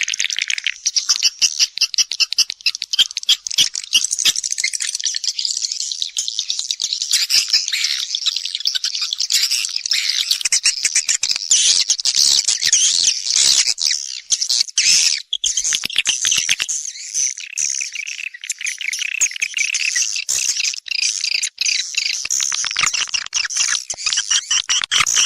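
Swiftlets twittering: a dense, continuous chatter of rapid, high chirps and trills. This is a swiftlet call recording of the kind played to lure the birds into a nesting house.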